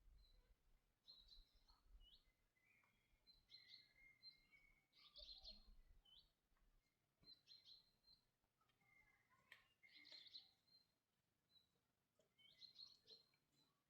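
Faint chirping of small birds: short calls and quick rising notes every second or two.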